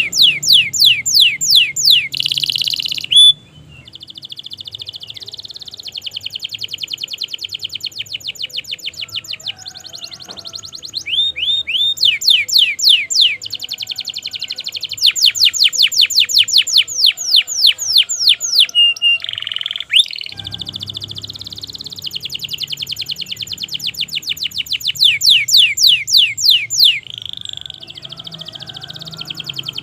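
Domestic canary singing a long, unbroken song: runs of rapid repeated downward-sweeping whistled notes, about six to eight a second, changing speed from phrase to phrase, with short buzzy rolls in between.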